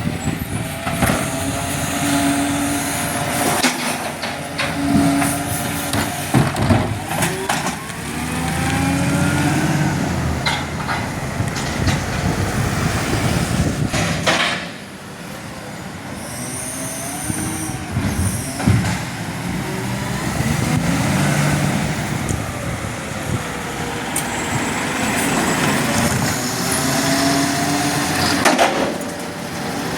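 Garbage truck running, its engine rising and falling in pitch in two similar cycles, with short sharp hisses now and then.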